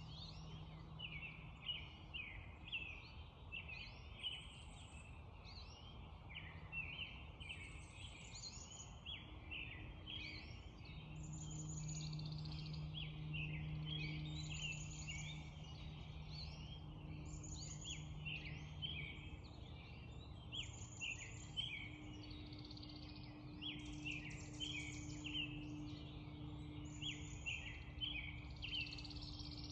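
Spring dawn chorus: many birds singing and calling at once in dense, overlapping short phrases and trills, over a low steady background haze. A faint low drone comes in about ten seconds in and carries on.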